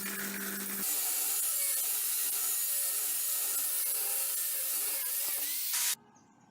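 A motor hum stops about a second in, leaving steady, loud abrasive rubbing on wood, like sanding, that cuts off abruptly near the end.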